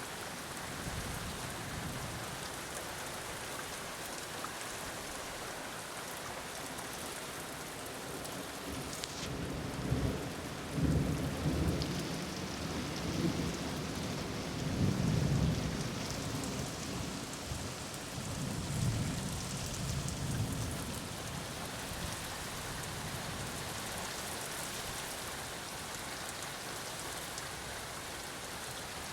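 Steady rain falling through a thunderstorm. About a third of the way in, a long roll of thunder rumbles in, swelling twice before fading out.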